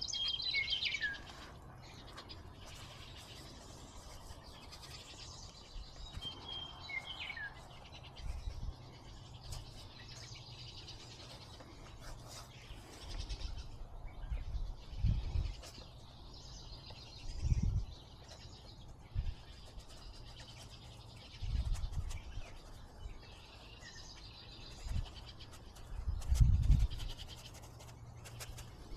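Outdoor birdsong: two quick falling chirps, one at the start and one about seven seconds in, over a patchy high twittering of more distant birds. Several short low rumbles break in through the second half, the loudest sounds here.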